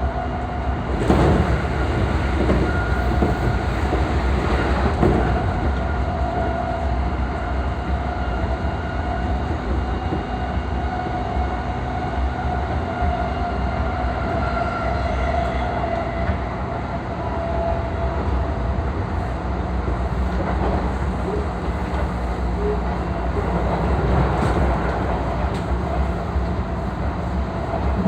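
JR East E233 series 3000 electric train running at speed, heard from inside the car: a steady low rumble of wheels on rail with a thin, steady whine over it.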